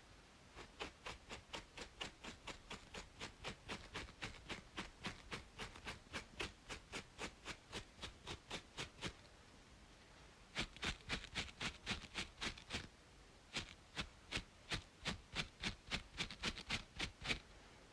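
Close-miked scratching on a scalp between braids: quick, even strokes about three or four a second, in three runs with short pauses between them.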